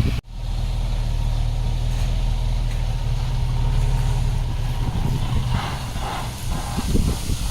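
Heavy diesel earthmoving machine engine running steadily, with a low hum. The sound drops out for an instant just after the start, and a rougher rattling noise rises briefly about six seconds in.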